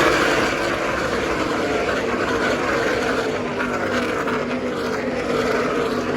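A pack of NASCAR race trucks passing at full speed on the track, their V8 engines loud, one after another. Each engine note drops in pitch as the truck goes by.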